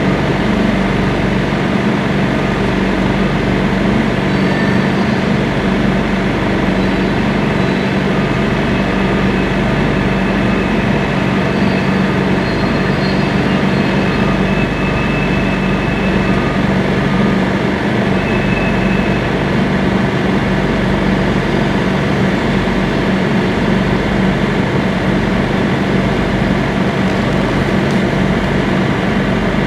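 Freight train of tank cars rolling steadily over a grade crossing, under the steady drone of an idling engine. A few faint, brief high squeals come and go partway through.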